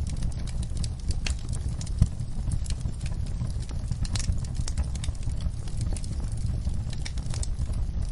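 Fireplace fire crackling: irregular sharp pops and snaps over a steady low rumble of flames, with one louder pop about two seconds in.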